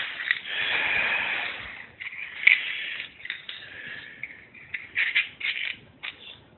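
Rustling, scraping and light rattling as a small matchbox is handled and opened, with scattered small clicks.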